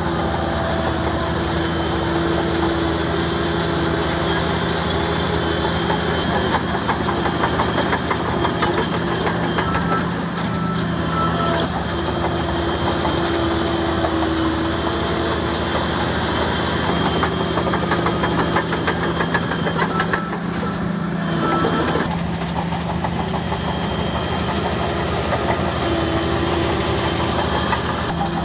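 Bulldozer's diesel engine running at a steady speed, with a fine rapid clatter over it.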